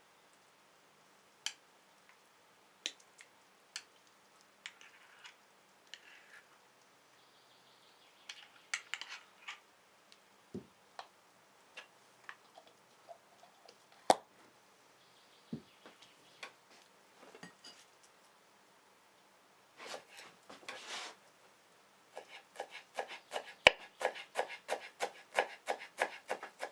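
Kitchen utensils and dishes being handled: scattered clinks and knocks, then a quick, regular run of strokes, about four a second, near the end.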